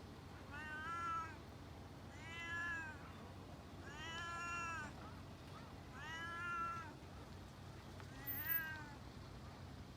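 A domestic cat meowing five times at a steady pace, each meow drawn out and rising then falling in pitch.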